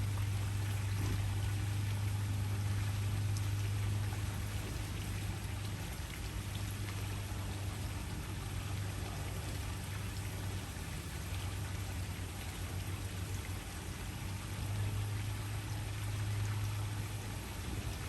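Waterfall: an even, steady rush of falling water, with a steady low hum underneath.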